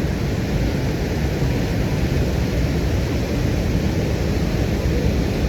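Steady roar of a large waterfall, Mallalli Falls in full monsoon flow: a constant rush of falling water without breaks.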